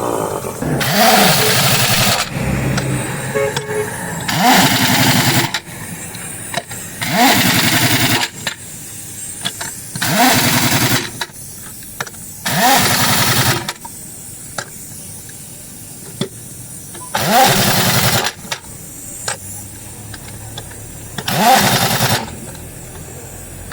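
Pneumatic impact wrench on truck wheel nuts, run in short bursts of about a second each, seven times. Each burst spins up with a rising whine into rapid hammering.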